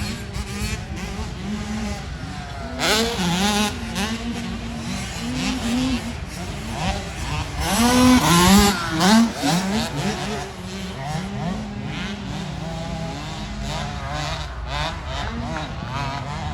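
Several motocross bikes racing, their engines revving up and dropping in pitch through gear changes as they go past, loudest about three seconds in and again around eight to nine seconds in.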